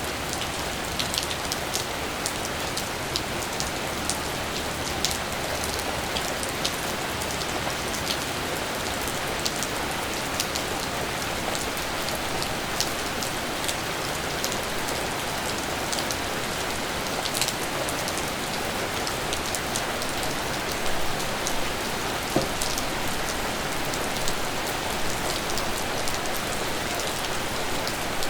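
Steady rain falling, an even hiss with irregular sharp taps of individual drops striking close by.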